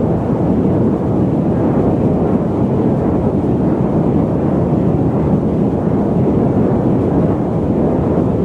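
Loud, steady static noise: a deep, muffled rushing hiss weighted toward the low end, with no change in level or pitch.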